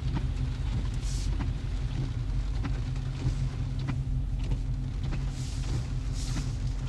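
Dodge Charger Scat Pack's 392 HEMI V8 rumbling steadily at low speed, heard from the cabin with the window rolled down in the rain. There are scattered light ticks and a few brief hissing swishes.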